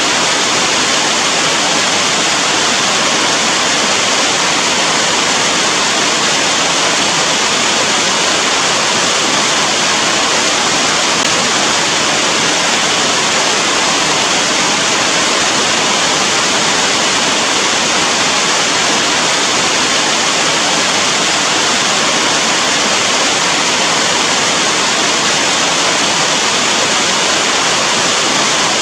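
Steady heavy rain, a dense, even hiss with no single drops or gusts standing out.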